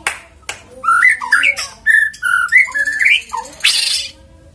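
White-rumped shama singing a run of rich whistled notes that glide up and down, then a short harsh rasping burst near the end.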